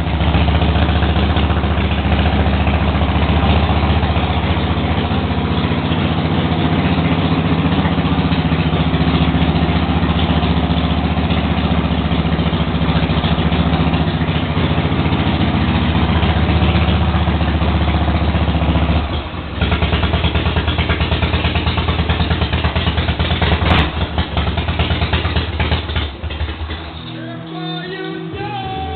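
Freshly rebuilt 80-cubic-inch Harley-Davidson Shovelhead V-twin running on its first start after an overhaul with 20-over pistons, new rings and a valve job. It runs steadily, then a little past halfway it dips and settles into a pulsing, loping beat before shutting off a few seconds before the end.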